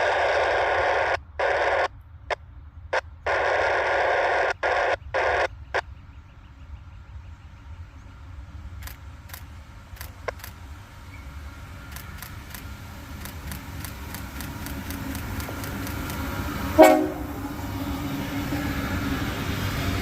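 Bursts of scanner-radio static cutting on and off, then the rumble of an approaching Canadian Pacific freight train growing steadily louder, with a short horn blast from the locomotive about 17 seconds in.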